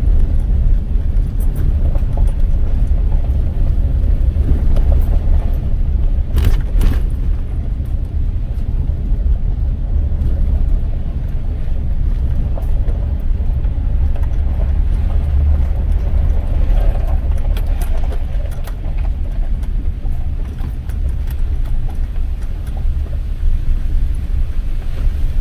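A car driving along, heard from inside: a steady low rumble of engine and road noise, with a couple of sharp knocks about six and a half seconds in.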